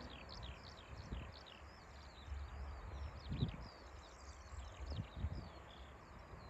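Small birds chirping steadily, many short quick falling notes, with wind gusting on the microphone.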